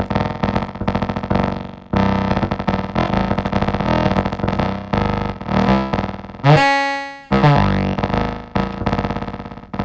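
Elektron Digitakt playing a sequenced synth bass line of rapid repeating notes. About two-thirds of the way through comes a brief held note, then a slide in pitch.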